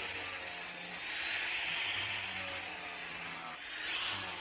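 60-grit flap wheel on a 6-inch variable-speed grinder sanding along stainless steel flat bar, a steady abrasive rasp over a low motor hum. This is the grain-straightening pass after the rough grinding.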